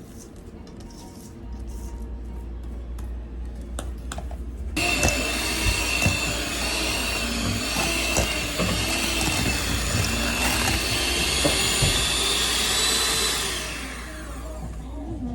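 Electric kitchen appliance motor, like a blender or mixer, switched on about five seconds in: a loud, steady whirring with a high whine that winds down near the end.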